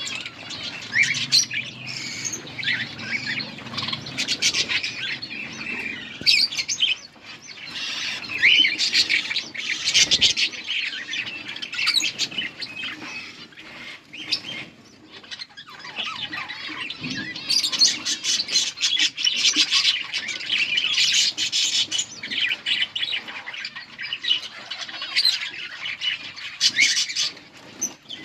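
Budgerigars chattering and squawking continuously in rapid, busy runs, with occasional wing flutters.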